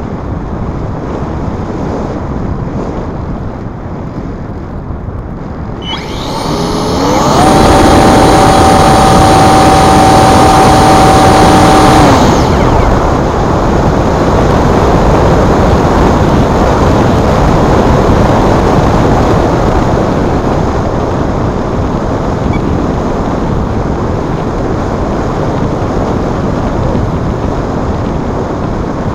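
Wind buffeting the microphone. About six seconds in, the electric motor of a Multiplex Blizzard RC glider spools up in a rising whine, holds a steady high whine for about five seconds, then cuts off, leaving the wind.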